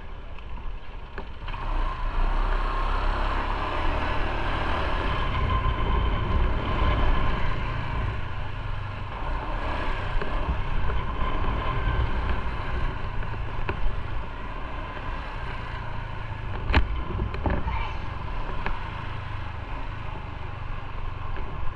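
Motorcycle on the move: steady engine and road noise mixed with wind on the microphone, swelling about a second and a half in. A single sharp click about three-quarters of the way through.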